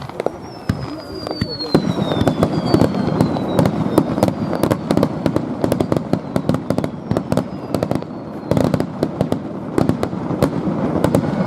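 Aerial fireworks exploding in quick, irregular succession, a dense run of bangs and crackles that grows louder after the first second or two, with a few falling whistles in the first few seconds.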